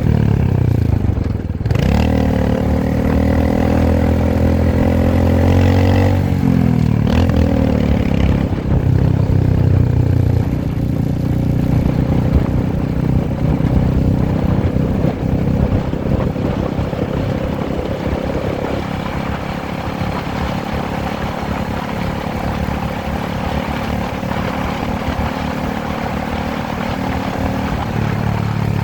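Motorcycle engine under way, revving up through the gears. Its note climbs, drops at a shift about two seconds in and again about six seconds in, and climbs once more. From about ten seconds on it settles into a steadier, rougher cruise.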